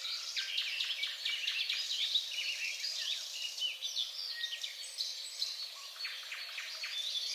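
Birds chirping and twittering: a dense, continuous run of short, quick high calls, with no low sound at all beneath them.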